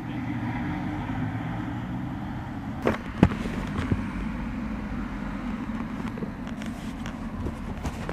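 Motorcycle engine idling with a steady low rumble. Two sharp knocks come about three seconds in, and lighter clicks follow later.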